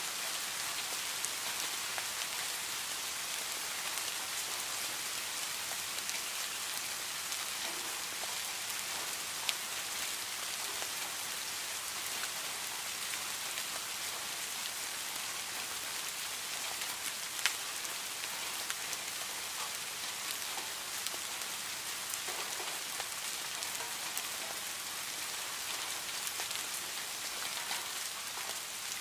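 Heavy rain falling steadily on leaves and plants, a dense, even hiss with a few louder single drops ticking close by, the sharpest about two thirds of the way through.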